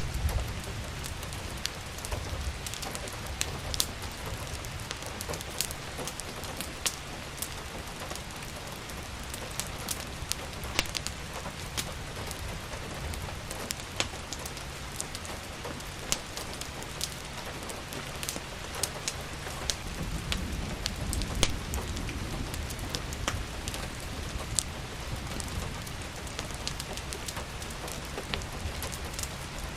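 Steady rain falling, mixed with the irregular sharp crackles and pops of a wood fire in a fireplace. A low rumble swells briefly about two-thirds of the way through.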